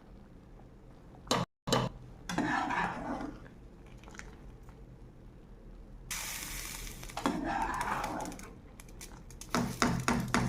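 Metal utensils clinking and scraping against cooking pots as part-boiled basmati rice is spooned out of its boiling pot and spread over the chicken layer of a dum biryani. There is a short hiss about six seconds in and a cluster of clinks near the end.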